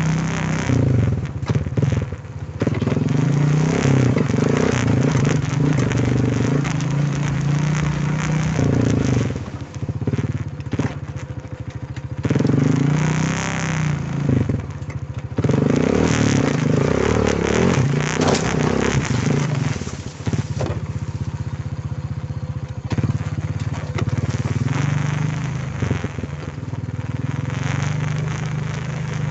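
Quad bike engine running under way, its revs rising and falling as the throttle is worked, with rough tyre and road noise.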